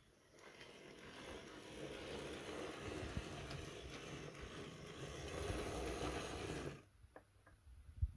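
Small model locomotive on a Dapol Pug chassis, its motor and gears running as it travels along the track, building up over the first couple of seconds, then stopping abruptly near the end. A few faint clicks and a short thump follow.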